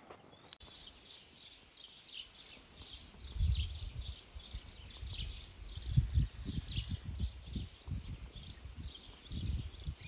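Small birds chirping over and over, short high calls about three a second. From about three seconds in, irregular low rumbling thumps come and go and are the loudest sound.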